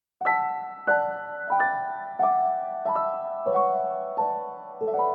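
Background piano music: a gentle melody of single notes and chords struck about every half second or so, each ringing and fading before the next.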